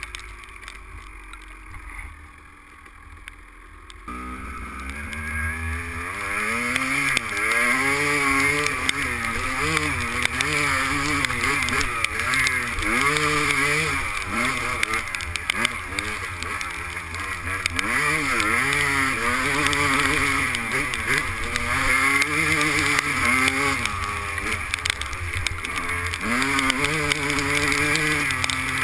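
Two-stroke 250 cc motocross bike engine ticking over low for about four seconds, then being ridden, its revs rising and falling again and again with the throttle and gear changes.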